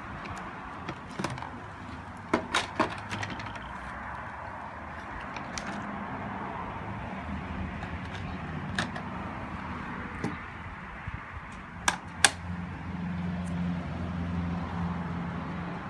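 Scattered sharp clicks and knocks from a Roomba 780 robot vacuum's parts being handled and taken apart for cleaning, with a steady low hum behind them.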